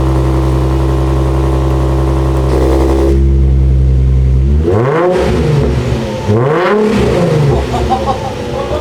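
Nissan 350Z's 3.5-litre V6 through a custom dual valved X-pipe exhaust, running steadily for about four seconds, then blipped several times, each rev quickly rising and falling back.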